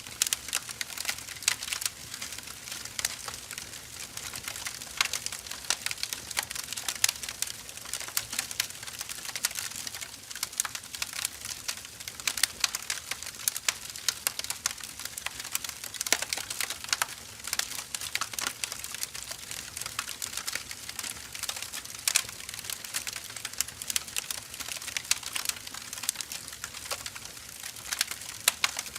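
Wood fire burning: dense, irregular crackling with many sharp pops over a soft steady hiss.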